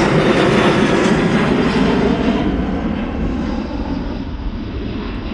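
Airliner engines, loud at first and fading as the aircraft moves away. The high hiss dies out about two and a half seconds in, leaving a lower rumble.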